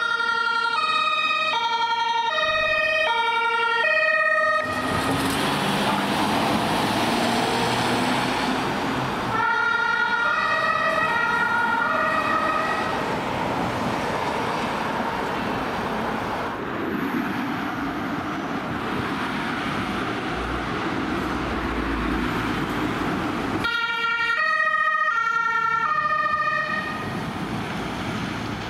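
Two-tone emergency vehicle siren alternating between a high and a low pitch about twice a second. It breaks off abruptly a few times, giving way to passing traffic noise and a low vehicle rumble, then comes back.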